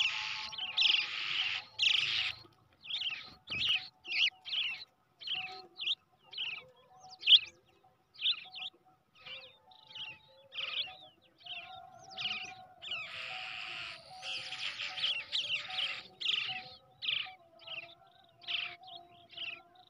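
Baby brown shrike chicks calling in a quick series of short, harsh chirps, several a second, with longer raspy runs at the start and again about two-thirds through.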